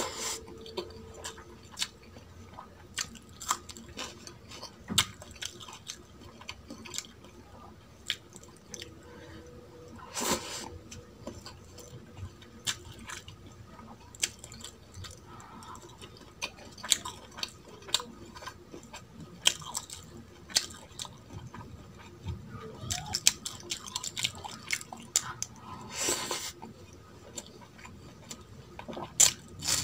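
Close-miked chewing and mouth sounds of a person eating mutton bhuna and pulao by hand, with irregular wet smacks and sharp clicks, a few of them louder.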